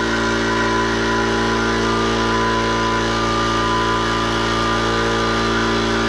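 Air compressor running steadily as it builds up tank pressure.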